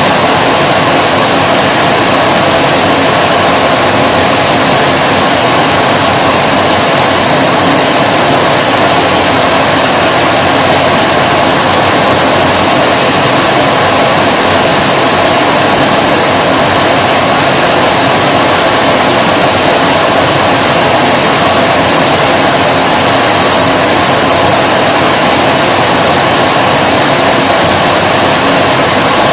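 Vacuum cleaner running continuously, a loud steady motor hum and rush of air at one unchanging pitch.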